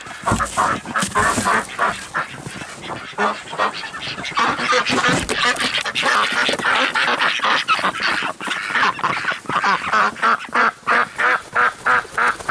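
A flock of domestic ducks quacking loudly and continuously, the calls overlapping. In the last few seconds this becomes a fast, even run of quacks, about three a second. A low thump comes right at the start.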